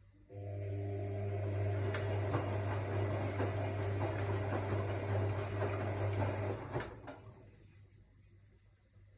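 AEG Lavamat L62850L front-loading washing machine: a steady electric hum with a rushing sound over it starts suddenly, runs for about six seconds, then cuts off, and the rushing dies away over a second.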